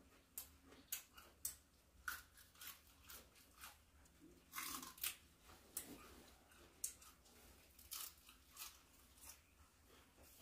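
Faint, irregular crisp crunches and clicks of tough raw winter napa cabbage being chewed.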